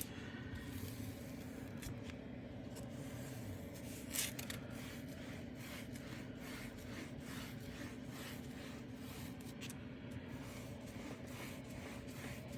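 Foam-tipped applicator of a diamond painting sealer bottle rubbed back and forth over the drills of a finished diamond painting. It makes a soft, repeated scraping, a few strokes a second, over a steady low hum.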